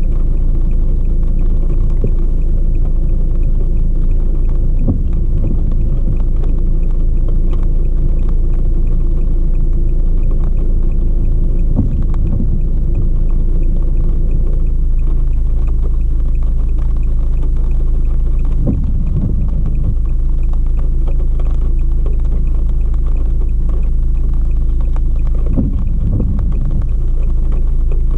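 Steady low rumble of a car, with a few brief knocks.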